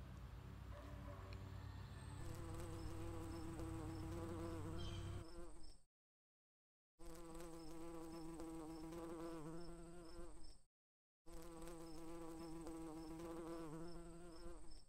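A flying insect buzzing close by in a steady pitched drone. It grows louder about two seconds in and cuts off abruptly twice, near six seconds and again near eleven seconds.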